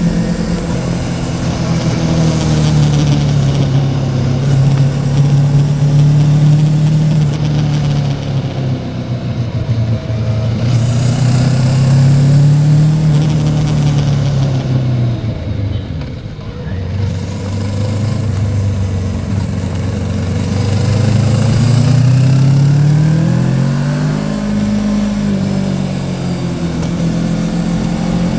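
Yamaha Tracer 700 motorcycle's parallel-twin engine running under way, its pitch rising and falling with throttle and gear changes, easing off and dropping lowest about halfway through before pulling up again. A steady rushing noise runs under it.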